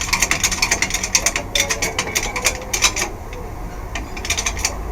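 Ratchet wrench clicking in quick runs of strokes, dense for about three seconds, then quieter and more spaced out.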